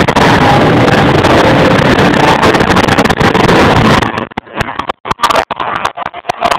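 Stunt cars' engines running hard as they drift around an arena, very loud and distorted. From about four seconds in the recording breaks up, cutting in and out in short bursts.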